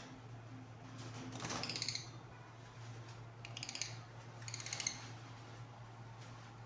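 Lovebirds giving short, rapid, raspy chattering calls in three bursts, over a steady low hum.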